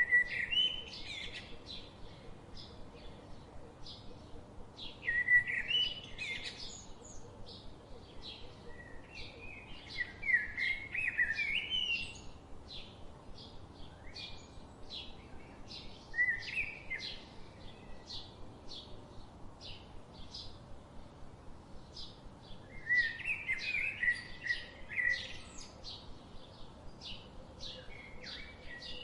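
Birds singing: a steady run of short high chirps about twice a second, with a louder warbling song phrase breaking in every few seconds.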